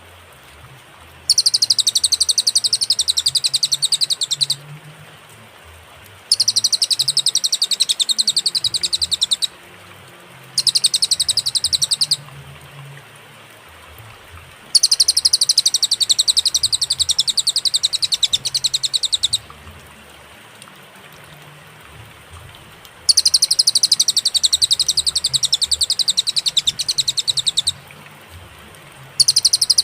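Cililin song: bouts of very rapid, high trilled notes lasting a few seconds each, broken by short pauses, over a steady faint hiss.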